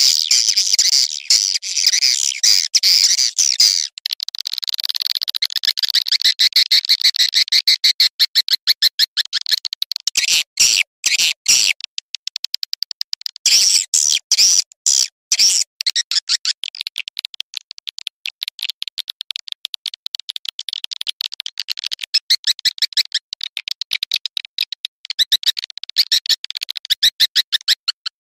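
Swiftlet calls: a dense, rapid twittering chirp repeated without pause, with brief thinner spells about 4 and 12 seconds in. This is the call sound used as a lure to draw swiftlets into a nesting house.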